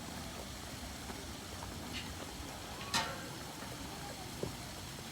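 Steady low road and engine rumble heard inside a moving car, with one sharp click about three seconds in and a softer knock near the end.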